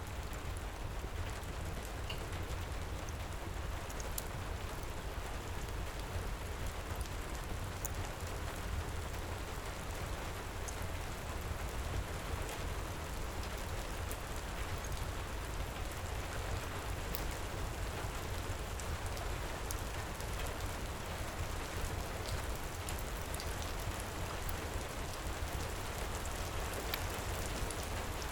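Steady heavy rain with a deep low rumble, dotted with scattered faint sharp crackles from a wood fire in a fireplace.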